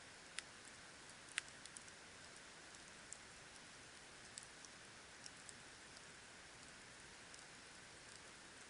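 Campfire burning: wood crackling, with sharp scattered pops over a soft steady hiss. The loudest pop comes about a second and a half in.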